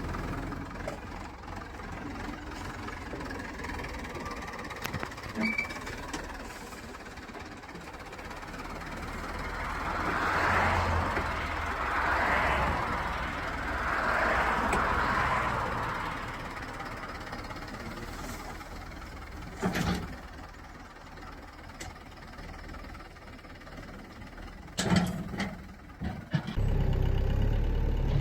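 Low background rumble with a few swells of noise and some sharp knocks, then near the end a tractor's diesel engine starts up abruptly and runs steadily at idle.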